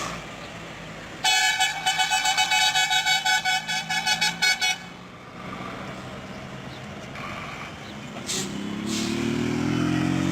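A truck's horn sounded in a rapid string of short toots for about three and a half seconds. Later, a heavy truck engine accelerates, its note rising steadily.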